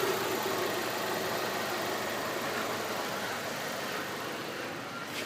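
Audi A4 engine idling after a rev, its sound slowly getting quieter.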